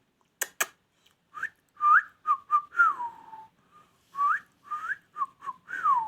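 Clear whistling: a phrase of short rising notes ending in one long falling note, whistled twice, with two sharp clicks just before it starts.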